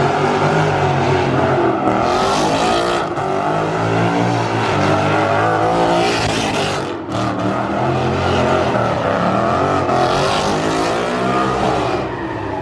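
Car engine revving hard at a street car meet, its pitch swinging up and down over and over, with three louder surges of rushing noise about 2, 6 and 10 seconds in.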